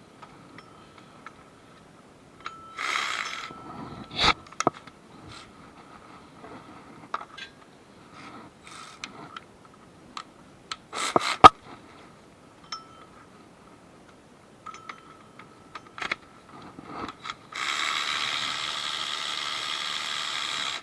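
Hand tools working on metal: scattered clicks and clanks, with short rattling bursts and one sharp loud clank in the middle. Near the end comes a steady, even whirring noise lasting about three seconds.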